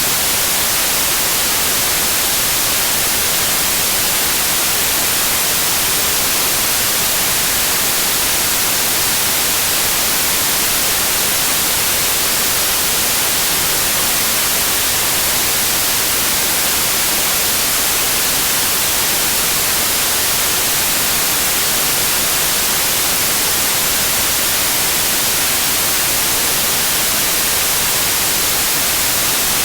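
Steady, loud white noise: an even hiss, strongest in the high frequencies, with no change at all.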